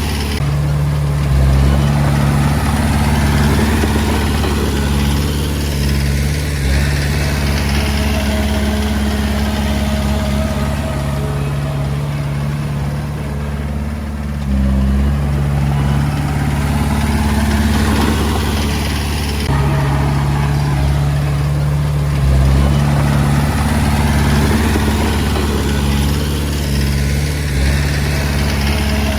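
Komatsu D20A bulldozer's diesel engine running steadily, its low note shifting several times as the load changes.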